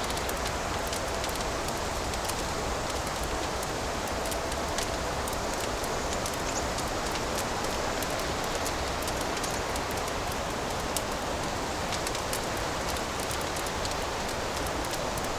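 Fireplace fire crackling: a steady hiss with many small, scattered crackles and pops.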